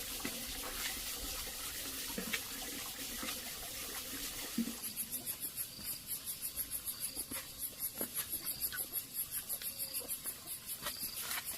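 Running water rushing steadily, giving way about five seconds in to an insect chirping in a fast, even, high-pitched pulse, about five chirps a second, with a few soft knocks.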